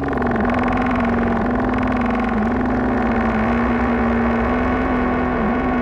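Ambient synthesizer music: a sustained low drone under a held note that shifts slightly in pitch about once a second.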